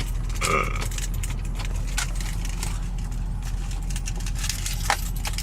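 Car engine idling, heard from inside the cabin, after starting on its own. There is a brief sound about half a second in and a few light clicks.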